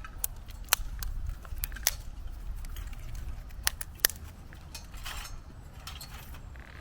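Sticks being snapped and handled as fuel for a small campfire: a dozen or so sharp, irregular snaps and clicks, with low wind rumble under them.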